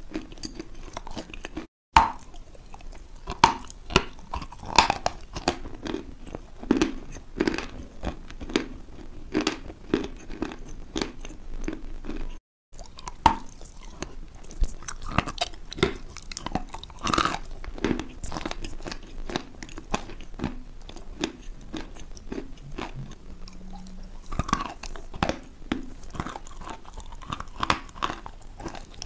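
A person biting and chewing crunchy food right at a close microphone, with irregular sharp crunches throughout. The sound cuts out briefly twice, about two seconds in and about twelve seconds in.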